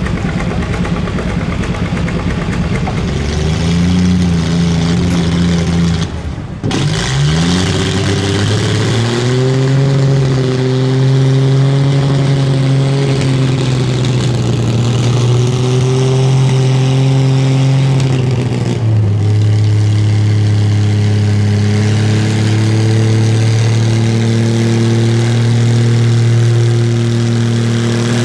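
Engine of a competition pulling vehicle running hard through a pull. Its pitch climbs, breaks off briefly about six seconds in, climbs again and holds high, then steps down to a slightly lower steady pitch about nineteen seconds in.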